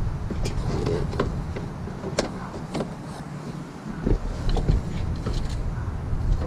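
Scattered sharp metallic clicks and knocks of hand tools working on the engine's belt drive and pulleys, over a low rumble that drops away for a couple of seconds in the middle.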